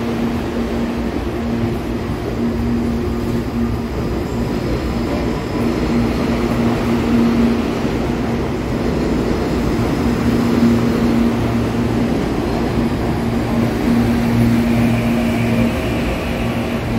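CPTM electric multiple-unit commuter train running past close by: steady rumble and clatter of wheels on the rails, with a low hum from the running gear that keeps fading in and out.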